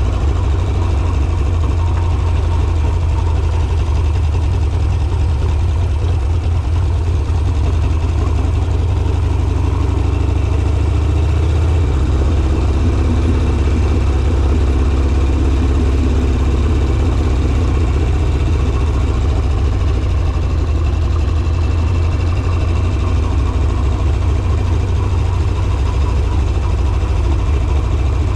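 Harley-Davidson Sportster's air-cooled V-twin engine running steadily at low speed with a deep, even note; the engine note shifts slightly about twelve seconds in.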